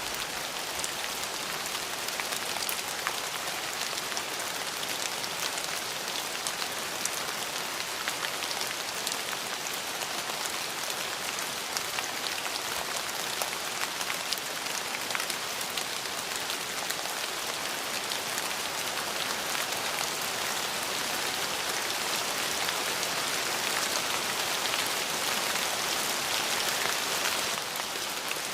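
Steady rain falling on a surface, an even hiss with many small drop ticks, growing slightly heavier in the last few seconds.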